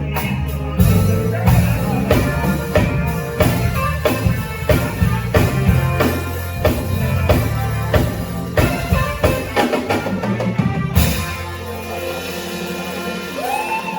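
Band music with drum kit and bass playing a steady beat; the drums drop out near the end, leaving held bass notes.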